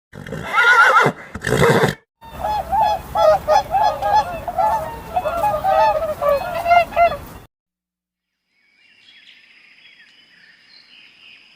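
A bird honking: two calls, then a rapid run of honks lasting about five seconds, followed by faint high chirping near the end.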